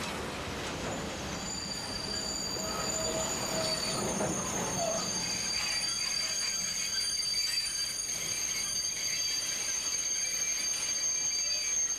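Freight train rolling slowly into a station, with a steady high-pitched metallic squeal over its rumble; the low rumble fades about halfway through while the squeal carries on.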